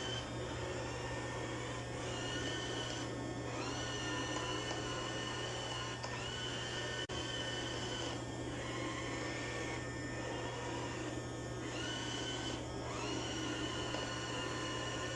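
Robot vacuum cleaner running, its motor humming steadily with a high whine that breaks off briefly several times as it drives back and forth over one spot.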